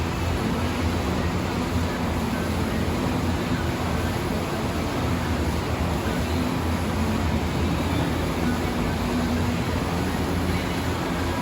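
Steady, unchanging engine drone: a low hum with hiss over it, with no starts, stops or changes in speed.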